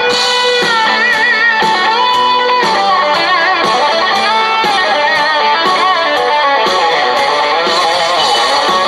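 Live country-rock band playing: electric guitar over a steady drumbeat of about two beats a second.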